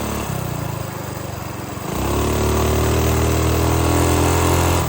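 Minibike engine idling, then revved up about two seconds in and held steady at high revs, around 5,000 RPM, before dropping back at the very end. That is close to its 5,200 RPM rev-limiter, a speed the owner considers unsafe to hold on the stock connecting rod.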